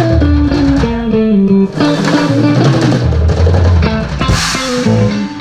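Rock band playing through the stage PA during a sound check: electric guitar and bass over a drum kit, with a cymbal crash near the end.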